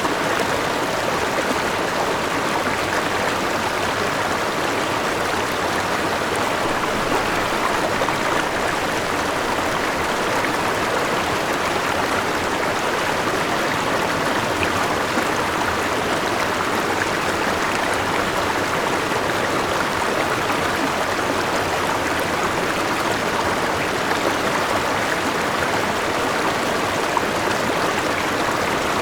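River water rushing and splashing over a small waterfall, a steady unbroken sound with no pauses.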